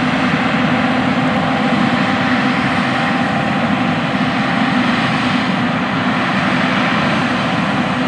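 Big John Deere farm machines running steadily under load, a continuous diesel engine drone with a steady whine held over it.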